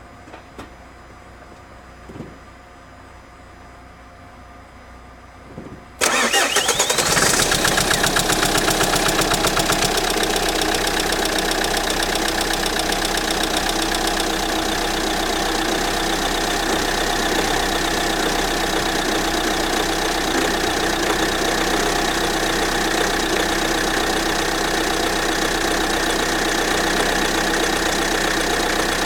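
Diesel car engine cold-started after sitting in near-freezing weather. After a few faint clicks it cranks and catches quickly about six seconds in, then settles into a steady idle with a fast, even rhythm.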